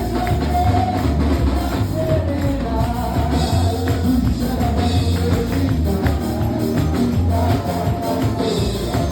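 Live church music: voices singing over a heavy bass line, with a tambourine shaking along.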